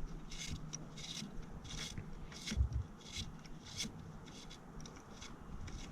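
Ratchet wrench tightening a spark plug in a Ford Ranger's 4.0 V6, a string of short raspy clicking strokes at uneven intervals, with a few dull knocks of tool against metal.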